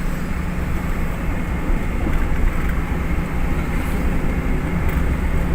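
A road vehicle on the move: a steady low rumble of engine and road noise that does not change.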